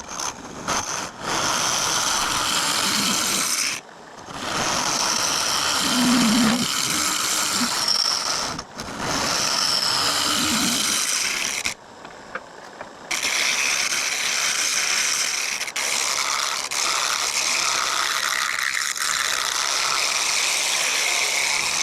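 A hollowing tool cutting into the inside of a mesquite bowl spinning on a wood lathe, going deeper, with a steady scraping hiss. The cut stops briefly about four, nine and twelve seconds in as the tool is lifted, then resumes.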